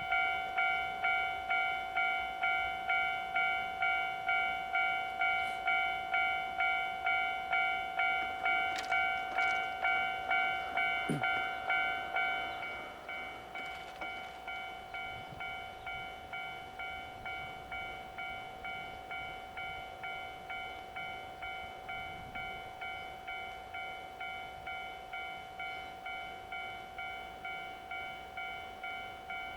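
Railway level-crossing warning bell ringing in an even, repeating strike of just under two a second, dropping noticeably in volume about twelve seconds in.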